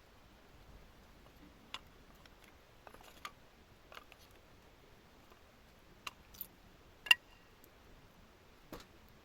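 Wood campfire crackling: scattered sharp pops over a faint steady background, the loudest about seven seconds in.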